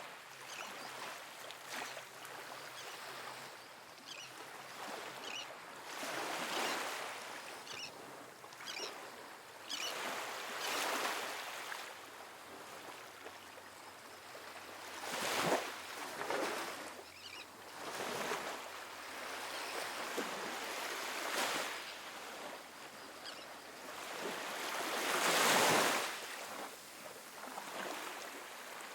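Small ocean waves breaking and washing up a sandy beach: a surge of surf every few seconds that swells and fades away, the biggest one near the end.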